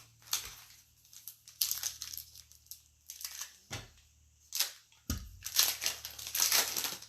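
A foil trading-card pack wrapper being torn open and crinkled in a string of irregular rustles, with two soft low thumps about four and five seconds in.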